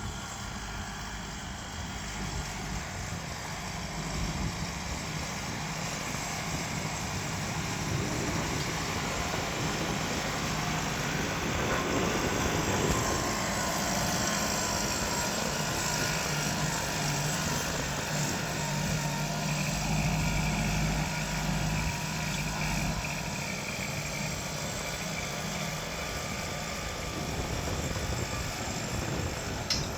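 Deutz-Fahr 5125G tractor's diesel engine running steadily under load, growing louder through the middle and easing a little near the end.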